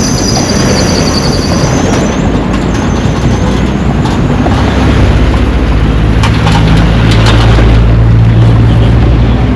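Street traffic: a motor vehicle's engine running close by, its steady low hum growing louder about halfway through, over a constant rumble. A high squeal fades out in the first two seconds.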